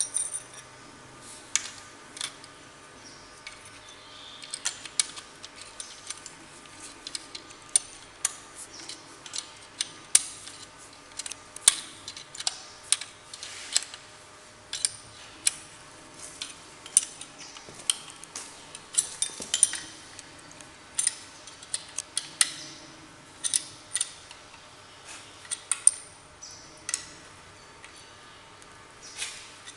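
Metal hand tools and engine parts clinking and tapping at an irregular pace during engine disassembly and reassembly, with sharp individual clinks.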